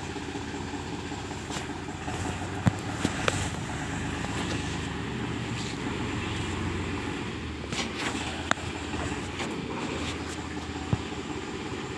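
Powertrac Euro 50 tractor's diesel engine running steadily at low revs, with a few short sharp clicks over it.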